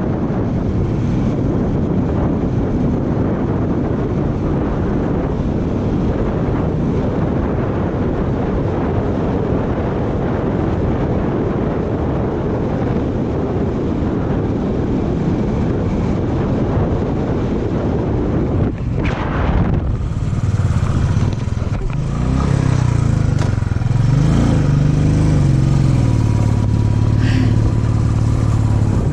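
Motorcycle engine under way, buried in heavy wind rush at first. About two-thirds of the way through, the wind drops suddenly and the single-cylinder Royal Enfield Bullet's engine note comes through clearly, rising and falling with the throttle.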